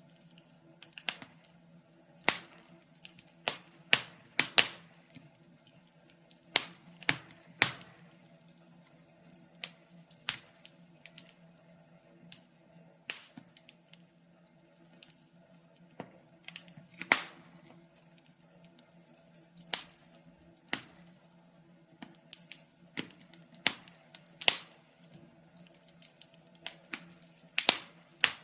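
Wood fire in a fireplace crackling: irregular sharp pops and snaps at uneven intervals, a few every couple of seconds, over a faint steady low hum.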